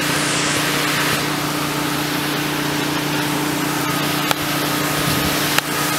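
Hurricane wind and heavy rain: a steady rushing hiss, with a steady low hum underneath and two short clicks, one a little past four seconds in and one near the end.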